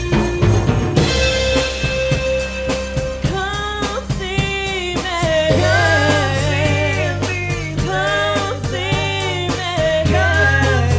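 A soul band playing a song, with a drum kit keeping a steady beat; a lead voice comes in singing about three seconds in.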